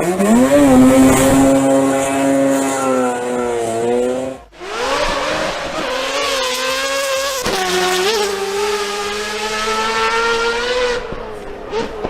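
Mazda rotary engine revving and held at high revs in two takes: it climbs at the start and holds, cuts off abruptly about four and a half seconds in, then comes back and holds high again until it stops near the end.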